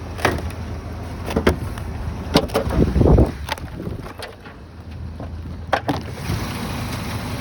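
1995 Ford Ranger's four-cylinder engine idling with a steady low hum, over a string of irregular knocks and clicks, the loudest a heavy thud about three seconds in.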